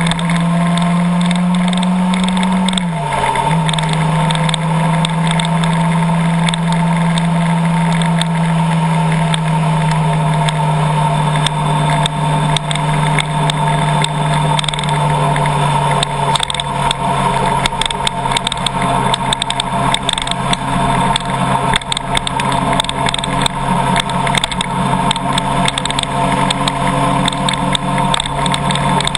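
Car driving with a steady engine hum that drops in pitch about three seconds in and then holds steady. From about halfway through, a dense patter of sharp ticks joins it.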